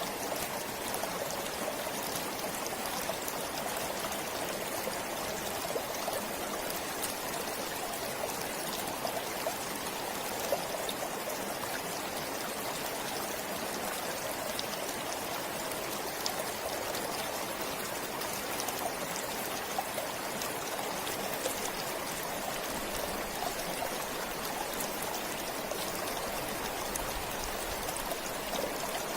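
Stream flowing steadily, a continuous rushing with many small splashes and trickles.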